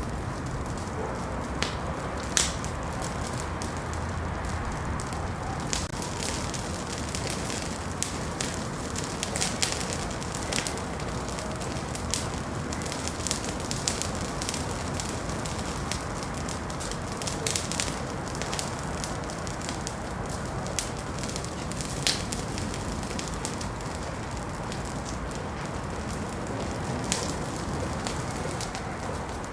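Wood fire burning in a fireplace: a steady low hiss and rumble with frequent irregular crackles and pops.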